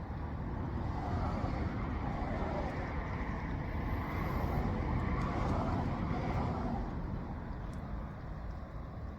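A motor vehicle going past, swelling to its loudest about halfway through and fading away, over a steady low rumble.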